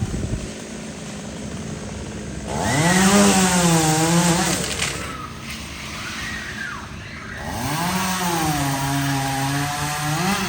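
Two-stroke chainsaw cutting tree branches: the engine idles, revs up to full speed and holds for about two seconds, drops back, then revs up again about three quarters of the way through and holds at a slightly lower pitch until near the end.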